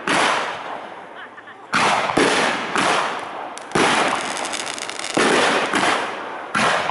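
Aerial firework shells bursting: about seven sharp booms, each fading off with an echoing tail, with a crackling in the middle.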